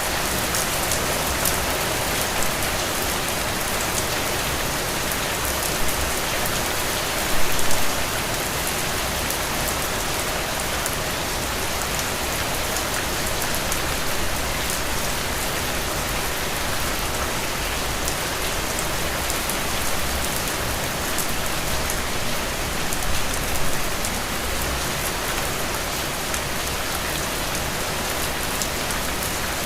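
Heavy rain falling steadily, a dense even patter, with a couple of brief louder swells.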